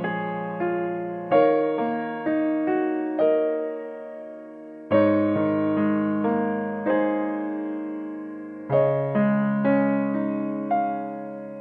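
Gentle background piano music: slow chords and single notes that ring and fade, with a new phrase struck about every four seconds.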